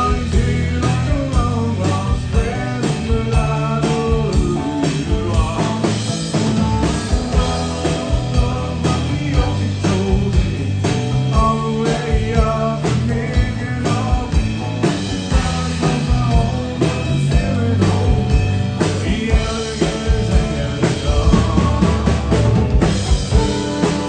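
A band playing country-rock music, with drum kit, bass and guitar and pitched lead lines over a steady beat.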